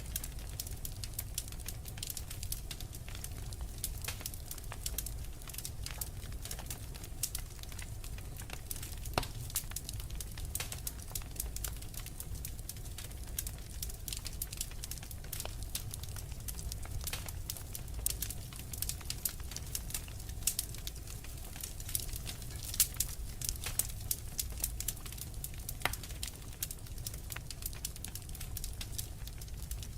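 Wood fire crackling, with many irregular sharp pops and snaps, a few louder than the rest, over a steady low rumble.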